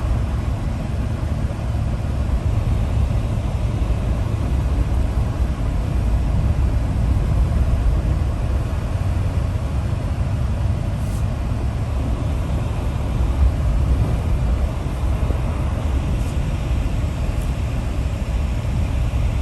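A car driving, with a steady low rumble of engine and road noise and a few faint ticks in the second half.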